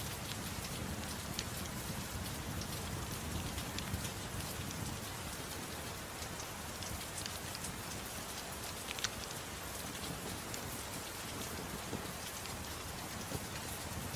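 Steady soft rain, an even hiss, mixed with a wood fire in a fireplace that gives a few sharp crackles and pops, the clearest about nine seconds in.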